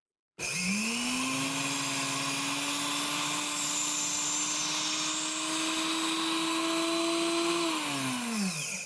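Electric blender motor grinding rice into flour: it switches on with a quick rise in pitch, runs steadily for about eight seconds with the pitch slowly climbing, then is switched off and winds down near the end.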